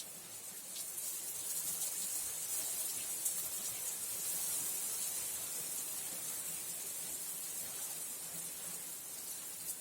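Steady rainfall: an even hiss of falling rain with a few faint drop ticks, swelling slightly about a second in.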